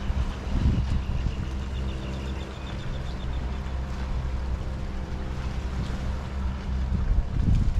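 Boat motor running steadily with a low drone, and wind buffeting the microphone in gusts about a second in and again near the end.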